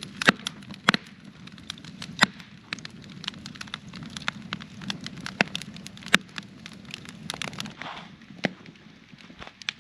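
Wood campfire burning, crackling with irregular sharp pops, several of them loud, over a low steady rush.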